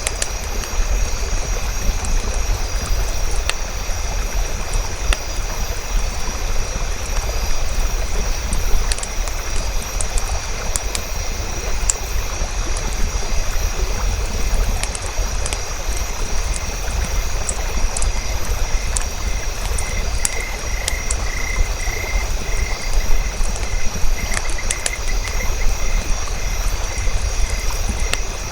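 Nature ambience: a steady low rumble under continuous high trilling of insects and frogs, with a pulsing trill joining about two-thirds of the way in. Scattered small crackles of a campfire sound throughout.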